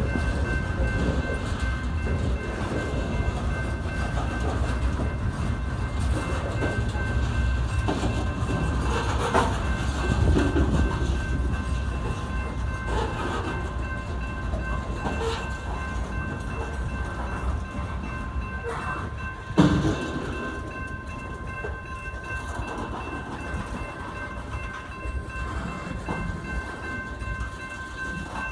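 Covered hopper cars of a grain train rolling past, a continuous rumble of steel wheels on rail with scattered clicks over the rail joints, under thin steady high-pitched tones. A single sharp clank sounds about two-thirds of the way through.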